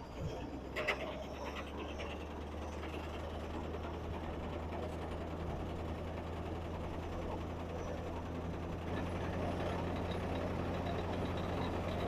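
John Deere 55 combine running with its separator engaged for the first time in about 20 years: a steady mechanical hum that builds slightly, with a couple of clicks about a second in. There is a little knocking in the machine.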